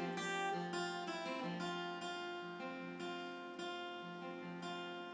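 Acoustic guitar picking and strumming chords in a slow country-ballad intro: several strokes in the first couple of seconds, then the chords ring out.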